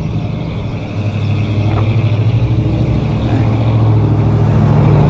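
A motor vehicle's engine running with a low, steady hum that grows louder as it draws near.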